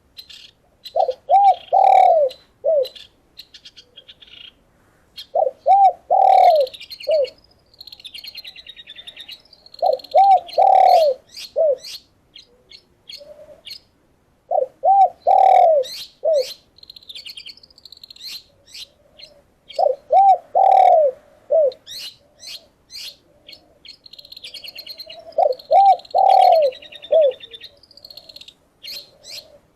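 A dove cooing a short phrase about every five seconds: a few quick notes, a longer note, then a short closing note. Small songbirds chirp and whistle busily over it.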